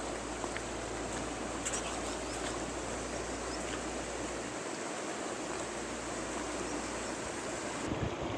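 Big river flowing: a steady rush of water. Near the end, wind starts buffeting the microphone.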